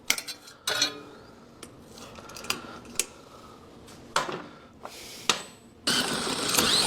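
Metal tools clinking and knocking on a small engine, then about six seconds in the recoil starter is pulled and the engine cranks over fast without firing: a spark check that shows no spark with the kill wire off, the sign of a bad ignition coil.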